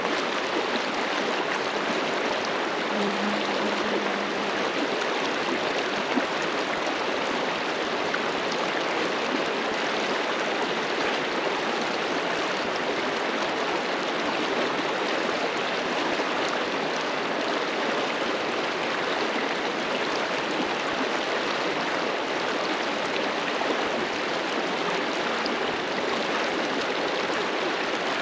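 River water rushing and splashing steadily over rocks, an even wash of sound.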